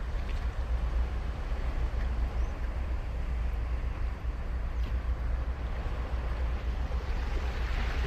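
Ocean surf on a sandy beach: a steady wash of waves with a deep rumble underneath.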